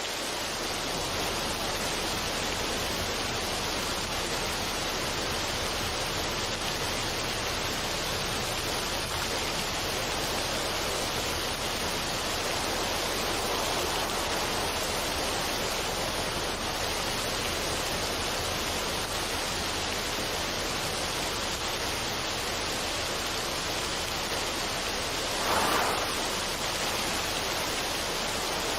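Steady, even rushing noise with no melody or beat, swelling briefly a couple of seconds before the end.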